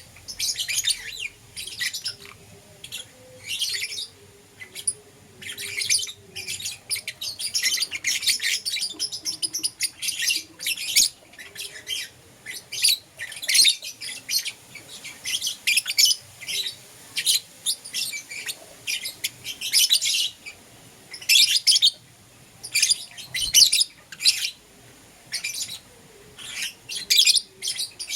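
Lovebirds chirping: rapid, high-pitched chirps that come in bursts of a second or so, with short pauses between them.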